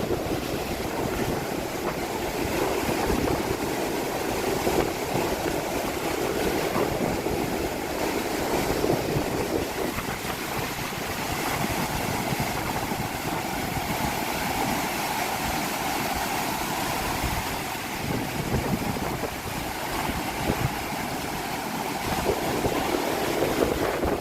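Sea surf washing onto the beach at high tide, with strong wind: a steady rushing noise.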